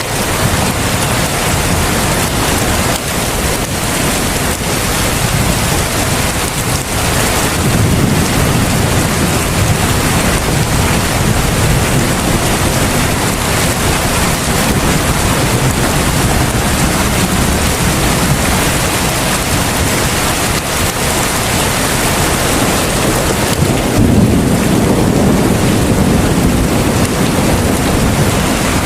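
Heavy rain falling steadily, a dense even hiss. A low rumble swells up about eight seconds in and again near the end.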